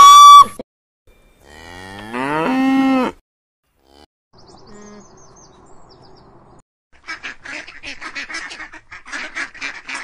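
A dromedary camel's long, loud call cuts off just after the start, and a second, rising call follows about a second later. From about seven seconds in comes a fast run of greylag goose calls, several a second.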